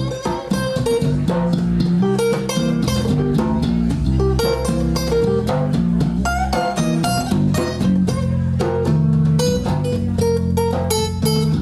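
Blues band playing an instrumental passage: plucked guitar lines over a walking bass and steady percussion.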